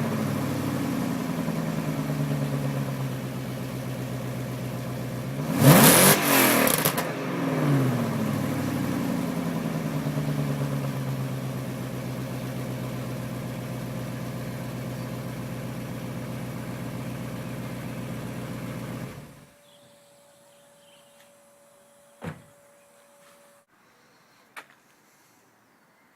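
BMW 740i engine with de-cat pipes, its exhaust free of catalytic converters, settling back from a rev. About six seconds in it is given one sharp blip that rises and falls, and it then idles steadily until it cuts off suddenly about nineteen seconds in, leaving a few faint clicks.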